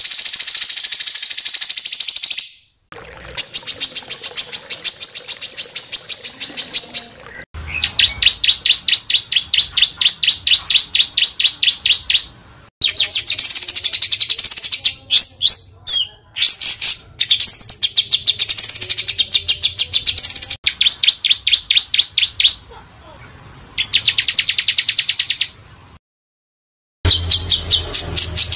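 A small songbird singing fast, harsh, high-pitched trills of rapidly repeated notes, in phrases of a few seconds each with short breaks between them; some phrases in the middle rise and fall in pitch.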